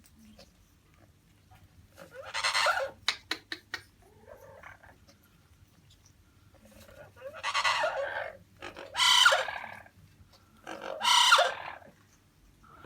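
Yellow-naped Amazon parrot giving four loud calls: one about two seconds in, then three more close together in the second half, with a few sharp clicks after the first.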